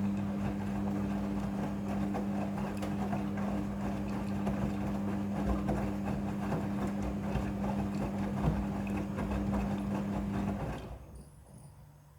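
Midea front-loading washing machine turning its drum during the wash: a steady motor hum with the rustle and slosh of the wet load, stopping about ten and a half seconds in.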